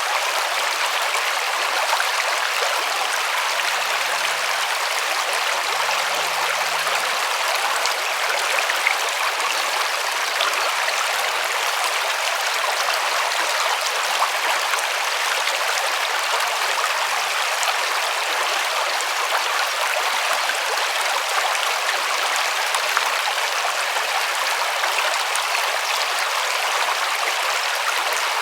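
River water rushing and splashing steadily over rocks, an even hiss with no change in level.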